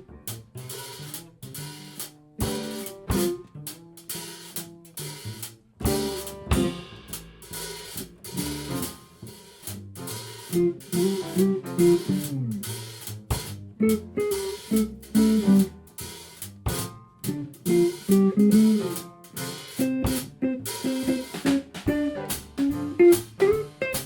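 A live five-piece band playing: a drum kit keeps time with hi-hat and snare strokes while guitar and other instruments carry moving melodic lines over bass and chords.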